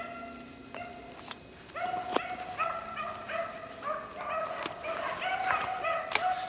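A pack of rabbit hounds baying in a chorus of long, drawn-out, overlapping calls while running a rabbit's trail, with a few sharp snaps or clicks mixed in.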